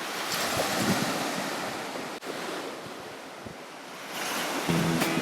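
Sea surf washing on a beach, a steady surging rush, with wind buffeting the microphone. Music starts near the end.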